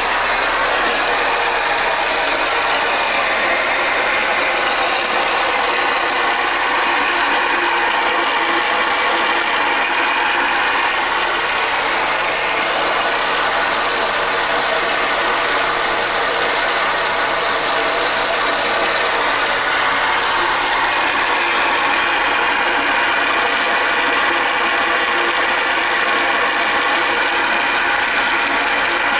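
Hyundai Solaris engine idling with the hydraulic power steering pump making a steady noise and knocking, the sign of a worn pump bearing.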